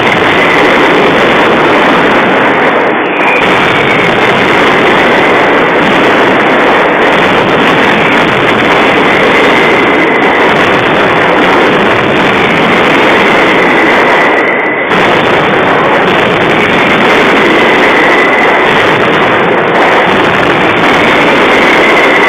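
Daytime firework barrage: firecrackers going off so fast that they merge into one continuous loud rattle, briefly letting up about three seconds in and again near fifteen seconds.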